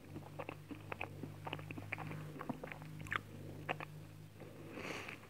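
A person chewing a mouthful of soft chocolate cake with ice cream, mouth closed: a run of small mouth clicks and smacks at irregular intervals.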